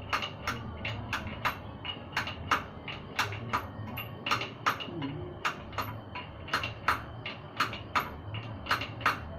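Light metallic clicks and clinks, irregularly two or three a second, each with a short high ring, as of hand tools and metal parts tapped or handled during motorcycle repair work.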